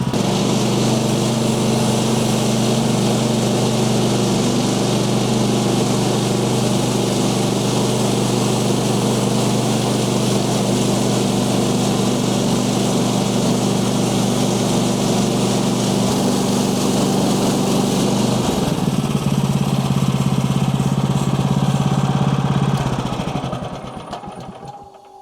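Portable band sawmill's Kohler engine running steadily at full throttle as the band blade cuts through a log, with a hiss from the cut over the engine drone. About 18 seconds in the pitch shifts, and near the end the engine winds down and the sound fades.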